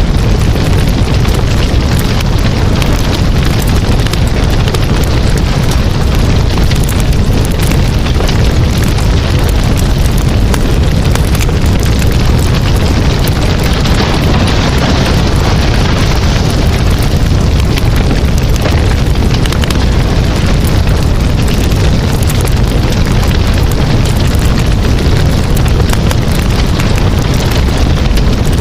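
Wood campfire burning close to the microphone: a steady loud rush of flame with a low rumble and dense, continuous crackling and popping of the burning wood.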